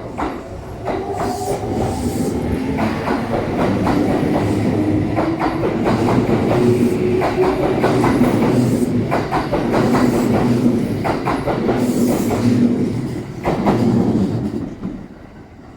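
Kintetsu Nara Line electric train running past, its wheels clacking over rail joints in a steady rhythm under a low hum. The sound builds early on and fades away near the end.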